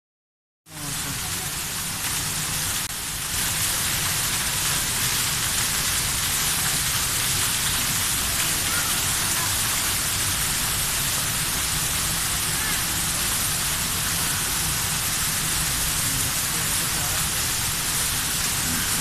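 Steady, dense hiss of rain, starting abruptly just under a second in.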